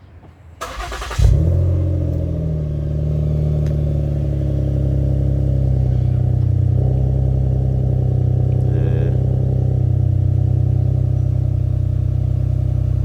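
2015 Ford Explorer with MagnaFlow mufflers and the resonator removed, cold-started: the starter cranks briefly about half a second in, the engine catches with a loud flare just over a second in, then settles into a steady idle through the free-flowing exhaust.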